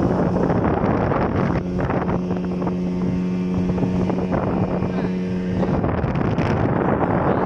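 Speedboat under way: its motor drones steadily under heavy wind rush on the microphone. Between about two and six seconds in the wind eases a little and the engine's hum comes through more clearly.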